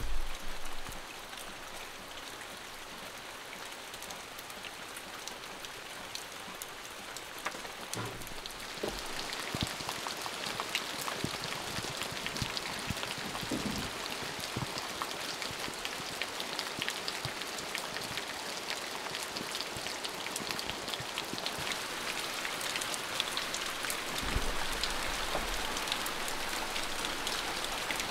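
Steady rain falling, with many single drops heard as sharp ticks; it grows heavier about nine seconds in. A dull low thump near the start.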